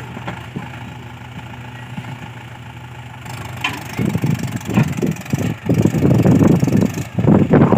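Mahindra 575 tractor's four-cylinder diesel engine idling steadily, with a louder, uneven rumbling breaking in from about four seconds in.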